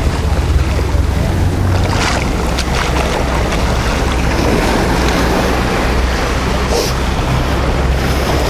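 Wind buffeting the microphone with a heavy low rumble over the steady wash of surf on the beach. A few short clicks or scrapes come through, one about two seconds in and another near the end.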